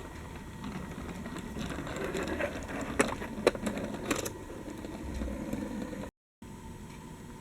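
Small electric drive motors and plastic gearboxes of remote-control model tractors whirring steadily, with scattered clicks and rattles near the middle. The sound drops out briefly about six seconds in.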